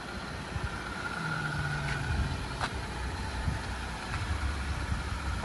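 Jeep's engine idling steadily, with two light clicks about two seconds in.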